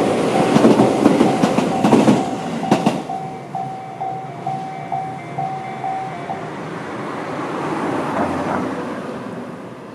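Tobu 8000-series electric train passing over the level crossing, its wheels clacking over the rail joints, loudest for the first three seconds and then fading. The crossing's electronic warning bell dings about three times a second and stops about two-thirds of the way through.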